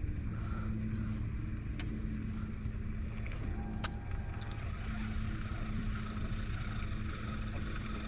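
Boat motor humming steadily at a constant pitch, with a single sharp click about four seconds in.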